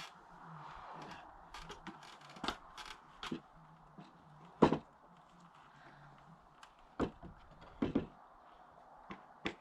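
Irregular wooden knocks and clunks from carpentry on a post-and-beam porch frame, with small clicks in between and three louder thuds, the first a little before halfway and two close together near the end.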